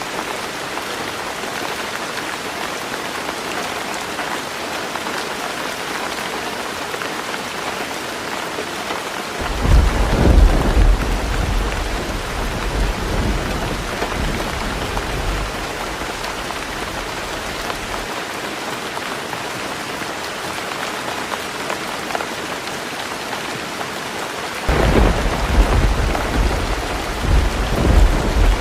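Heavy rain drumming steadily on a tin roof, with two rolls of thunder: a deep rumble breaks in about a third of the way through and fades over several seconds, and a second starts near the end.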